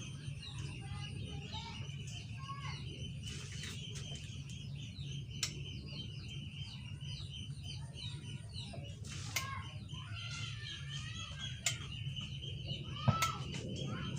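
Small birds chirping continuously over a steady low hum, with a few sharp clicks; the loudest click comes near the end.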